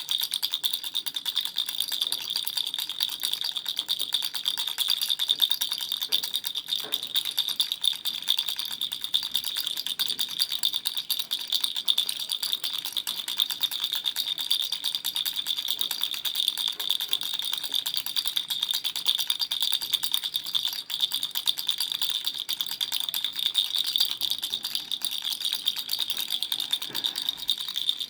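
Baby rattle shaken steadily and without pause, a dense stream of small, bright rattling clicks.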